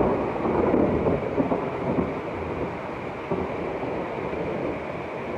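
A thunderclap that breaks in suddenly at the start and rumbles on, slowly fading, during a hailstorm.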